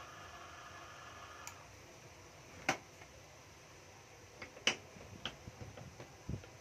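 Sharp clicks and knocks of hard plastic cordless-drill bodies being handled and set down, a few separate strikes with the loudest two about two seconds apart. Before them, a faint steady whine stops about a second and a half in.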